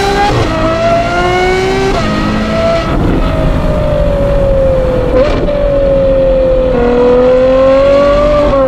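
Ferrari 812 GTS's naturally aspirated 6.5-litre V12 accelerating through Novitec exhaust, with three quick upshifts in the first three seconds. It then holds a steadier pitch, rising gently near the end.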